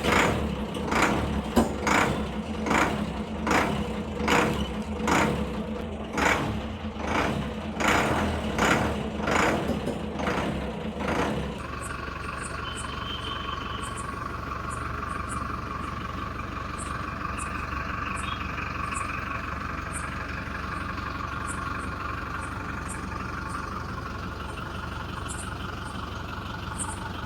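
A vehicle engine running, with a regular pulse a little over once a second for the first half, then settling into a steady hum with faint regular ticks from about twelve seconds in.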